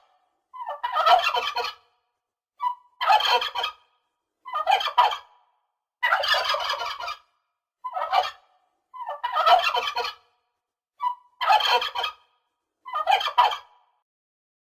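A turkey gobbling, about nine quick warbling gobbles in a row, each about a second long with a short silence between.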